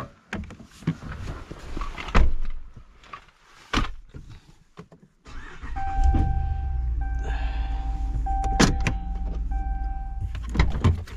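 Truck door and cab clunks, then about five seconds in the engine starts and runs at a steady idle. A steady electronic warning chime sounds over it, broken by short gaps.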